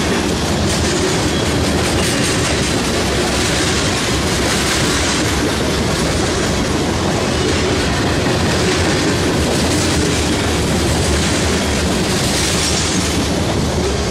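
Freight train's covered hopper cars rolling past close by: steady, loud noise of steel wheels running on the rails.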